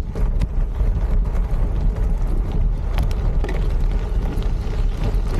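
Wind rumbling on the microphone of a moving bike, with tyre and frame noise and scattered clicks and knocks from bumps on a rough trail.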